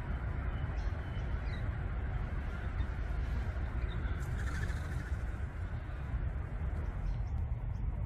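Birds calling over a steady low rumble: a few short, faint chirps and one harsher call about halfway through.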